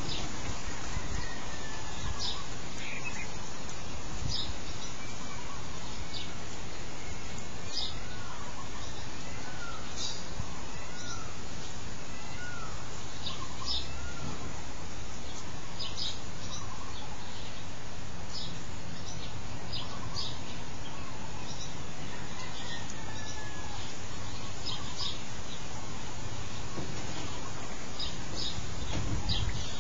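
Scattered short bird chirps and brief curved whistles, some high and some lower, over a steady hiss.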